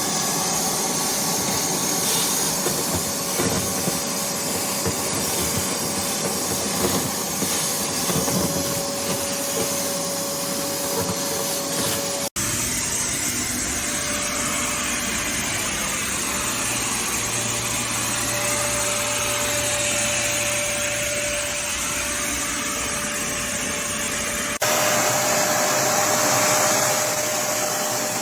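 Kärcher WD 2 Plus wet and dry vacuum cleaner running steadily: a motor whine with a held tone over a rush of air. It cuts out for an instant about twelve seconds in and changes character abruptly near the end.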